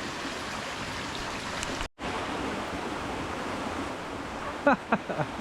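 A stream rushing steadily over stones. About two seconds in it cuts out for an instant and comes straight back, and a brief call falling in pitch sounds near the end.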